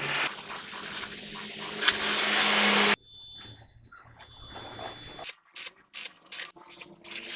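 Workshop tool noise: a loud steady hiss runs for about three seconds and cuts off abruptly. After a quiet moment comes a quick string of short, sharp bursts near the end.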